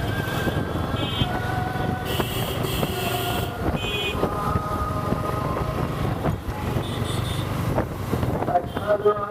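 Steady vehicle and road noise with wind buffeting the microphone, heard while riding, with short held tones coming and going.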